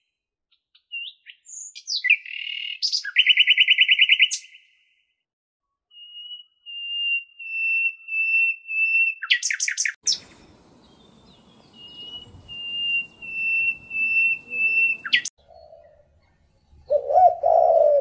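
Goslings peeping: a fast high trill, then long runs of quick, high, evenly spaced peeps, broken by a couple of harsher goose calls. Near the end, a pigeon coos lower.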